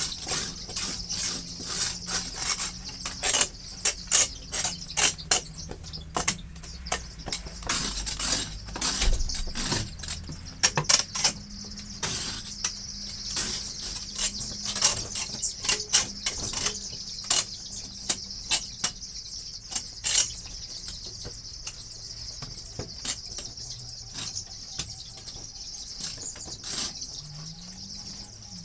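Chicken-house bedding being turned, giving many sharp scratching and rustling clicks that are densest in the first half and thin out later. Under it runs a steady high chirping from the broiler flock.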